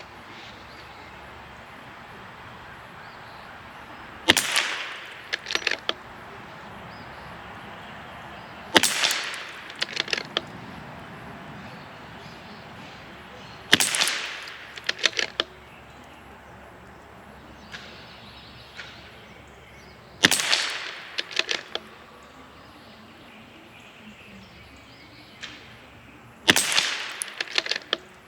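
CZ 457 MTR .22 LR bolt-action rifle firing five single shots, spaced several seconds apart. Each sharp crack is followed about a second later by a quick rattle of clicks as the bolt is worked. These are fouling shots through a freshly cleaned barrel.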